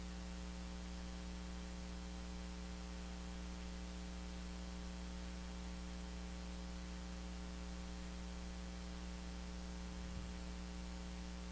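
Steady electrical mains hum with a stack of even overtones over a faint hiss, unchanging throughout; a tiny click about ten seconds in.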